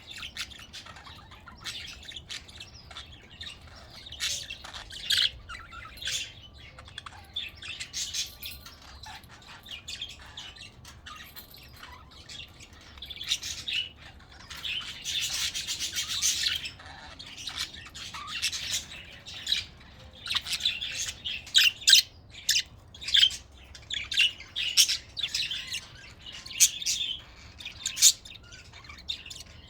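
A flock of budgerigars chirping and chattering, short high calls overlapping continuously, with a denser warbling stretch midway and louder sharp calls in the second half.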